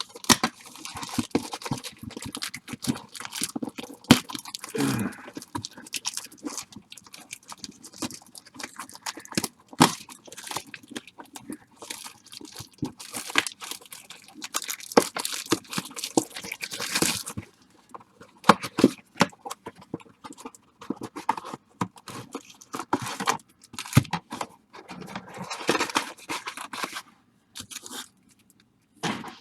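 Plastic wrap and foil baseball card pack wrappers crinkling and tearing as a blaster box of packs is opened, with scattered sharp rustles and clicks.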